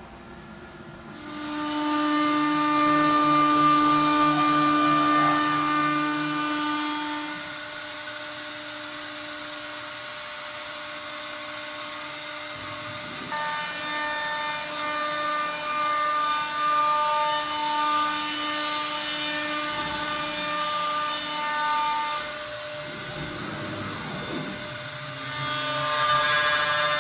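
CNC router spindle starting up about a second and a half in and then running with a steady whine. Its router bit cuts wooden baluster stock, and the cutting noise grows louder and softer as the tool moves along its path.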